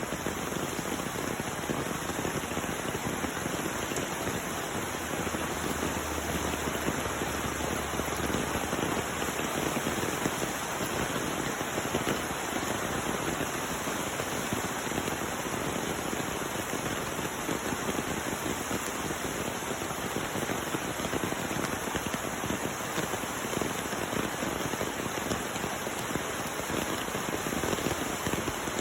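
Heavy rain pouring down steadily, a dense even hiss of drops hitting surfaces.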